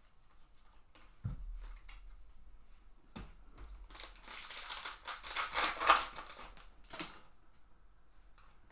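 Plastic wrapper of a trading-card pack being torn open and crinkled, a crackling rustle of about two seconds, after a couple of soft knocks of the pack or box on the table.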